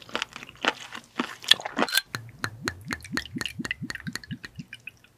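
Close-miked wet, crunchy chewing of raw spoon worm (gaebul): a quick run of sharp clicks and squelches that thins out about four and a half seconds in.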